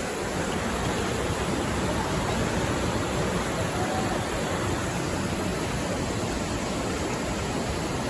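Floodwater rushing, a steady dense hiss of moving water with no breaks.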